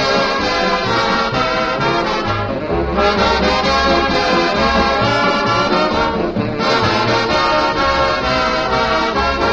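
Swing band music with brass, trombones and trumpets, playing steadily over a pulsing bass line.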